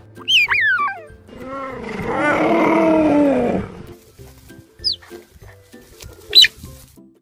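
Cheetah calling: several short, high chirps falling in pitch, then a louder, lower call lasting about two seconds, and two more brief high chirps near the end.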